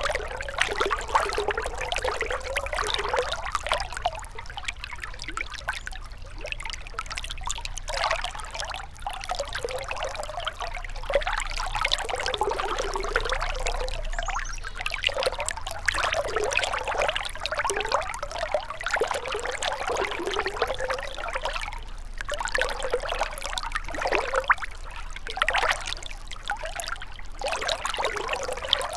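Shallow river water flowing and trickling, with continual small splashing and burbling that rises and falls unevenly.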